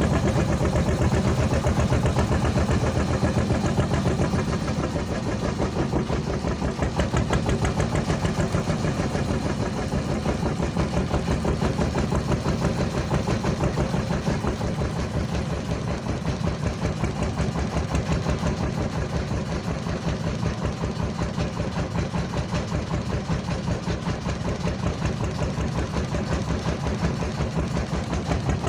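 Engine of a small Susi Air propeller plane running steadily, with a fast even pulsing.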